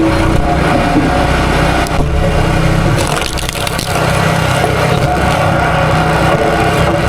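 Small gas engine running steadily under load, amid wood-processing work.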